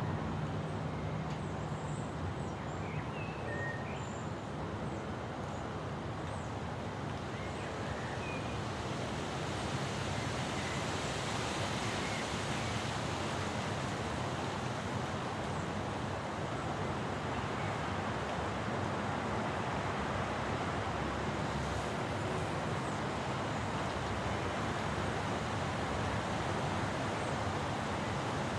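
Steady rushing of wind in a thunderstorm, swelling a little about ten seconds in, with a few short bird chirps in the first few seconds.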